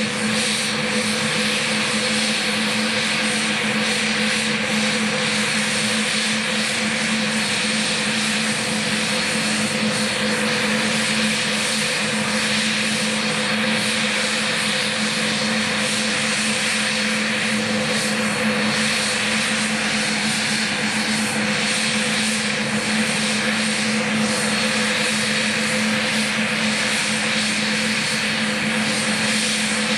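The Saab 105's twin Turbomeca Aubisque (Volvo RM9) turbofan engines running steadily: an even jet roar with a steady high whine and a low hum that hold level throughout.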